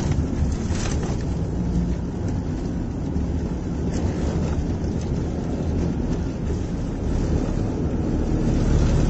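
Steady low rumble of a car driving on the road, with wind noise over it.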